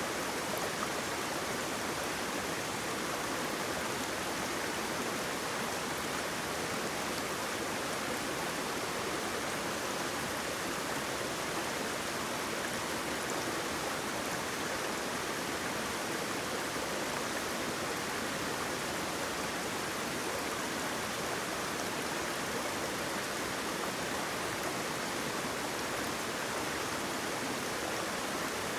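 Flowing water, a stream or small waterfall, rushing with a steady, even hiss that does not change.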